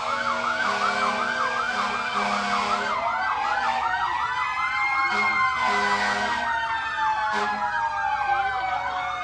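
Sheriff's patrol car sirens sounding together: one on a fast yelp of about four sweeps a second, another on a slow wail that rises and falls, with a low tone cutting in and out beneath.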